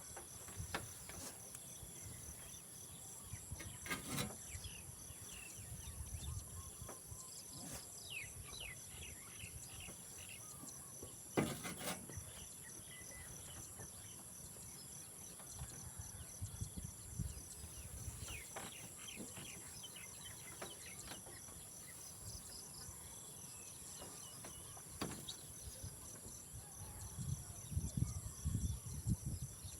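A steady, high-pitched insect chorus of crickets with a pulsing trill beneath it, and scattered bird chirps. Two sharp knocks come about four and eleven seconds in, and low rumbling near the end.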